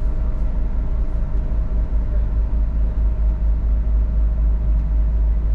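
Diesel passenger railcar running along the line: a steady, heavy low rumble of engine and wheels on rail.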